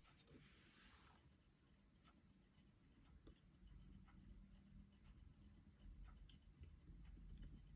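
Near silence with faint pen-on-paper writing sounds: small scratches and taps, a little more frequent in the second half.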